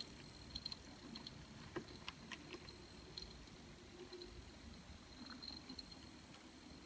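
Faint N gauge model train running on the track: a thin steady whine and low hum from the locomotive's motor, with scattered light clicks from the wheels on the rails.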